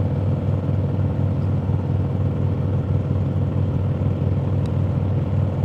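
Harley-Davidson V-twin motorcycle engine running steadily at highway cruising speed, with an even rushing noise over it.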